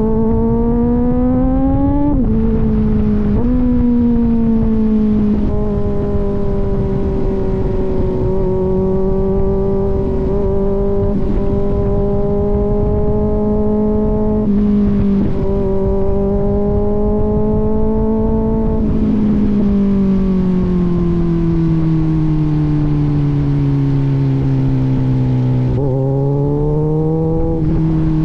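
Kawasaki Z900's inline-four engine through an aftermarket AR exhaust, heard on board while riding. The revs climb and drop sharply twice in the first few seconds as it shifts up, hold steady at cruising speed, sink slowly for several seconds past the middle as the bike slows, then rise again near the end, over a constant rush of wind.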